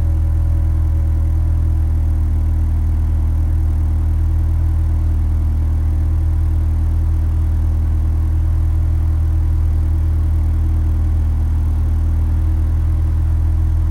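Mitsubishi Eclipse GSX's turbocharged 2.0-litre four-cylinder idling steadily after a cold start, an even low hum that holds a constant pitch.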